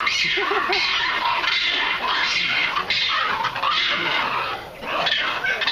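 Long-tailed macaques shrieking in a run of harsh, noisy screams, with three short yelps near the start.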